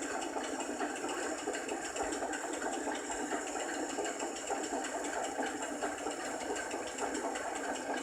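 A small machine running steadily with a fast, even rattle.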